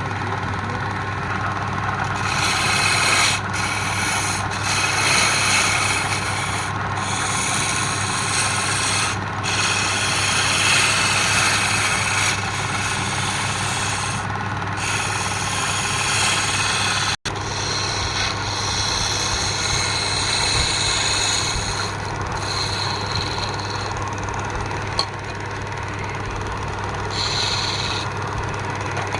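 A wood lathe's motor running steadily while a tool scrapes or sands the spinning wood in stretches, starting about two seconds in with short pauses.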